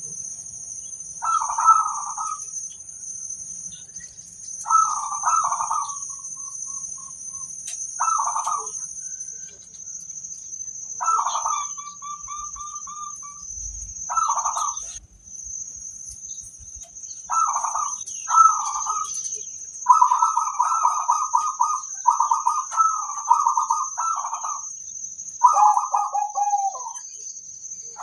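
Zebra doves (perkutut) cooing: short rolling coos repeated every few seconds, coming almost back to back in the last third.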